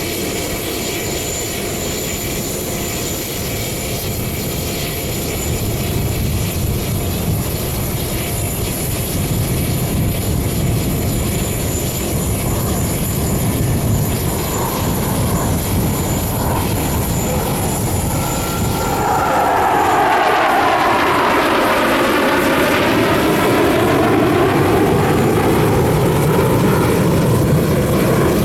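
Jet aircraft engine noise from an aerobatic display, steady at first. About two-thirds through it grows louder, and a sweeping whoosh falls and then rises in pitch as the jets pass overhead.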